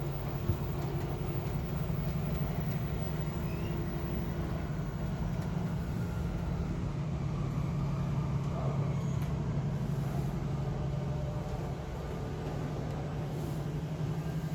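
Steady running noise inside a Shinkansen bullet train's passenger cabin, a low hum with a fainter higher tone that fades out about four seconds in.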